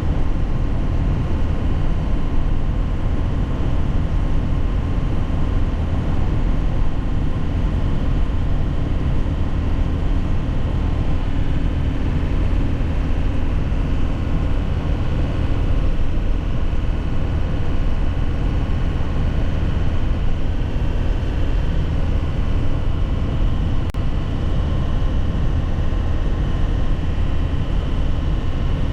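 2001 Nissan Cabstar light truck's diesel engine running steadily on the move, with a low drone and road noise. There is a single faint click about three-quarters of the way through.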